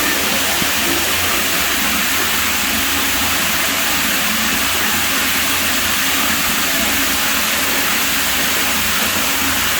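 Pool water running steadily: a continuous rushing with a low rumble underneath.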